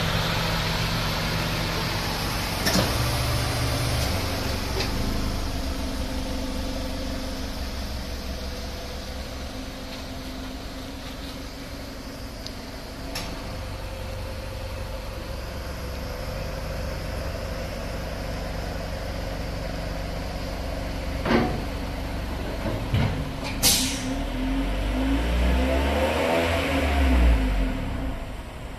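2014 Mitsubishi Fortis 1.8's four-cylinder engine, breathing through an aftermarket header with metal catalytic converter and single-outlet muffler, idling steadily with a few sharp clicks. From about three-quarters of the way through it is blipped a few times, the note rising and falling.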